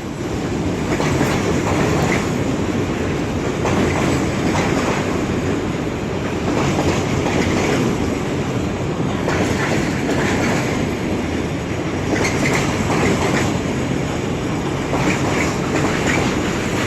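Container wagons of a long freight train rolling steadily past on the rails, a continuous rumble with wheel clatter over the rail joints and a few brief wheel squeals in the last few seconds.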